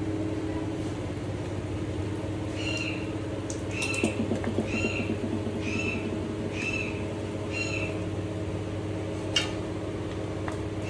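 A steady low hum, over which a bird calls a short repeated chirp, about one every two-thirds of a second, for several seconds in the middle.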